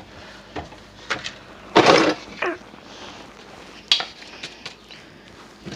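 Kitchenware being handled: a series of light knocks and clicks, with one louder clatter about two seconds in.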